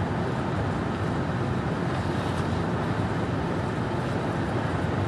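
Steady road noise inside a car's cabin at highway speed: tyres and engine in an even drone.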